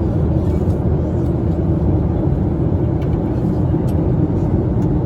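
Steady low roar of a Boeing 737-700 cabin in cruise flight, the airflow and CFM56-7B engine noise.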